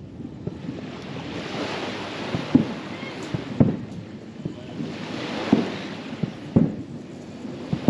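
Distant fireworks bursting: a run of dull booms, roughly one every second or so, over a rushing hiss that swells and fades.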